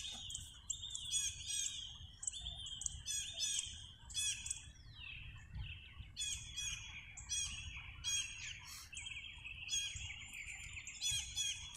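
Small birds chirping and twittering continuously, many short, quick calls overlapping, with a faint low rumble underneath.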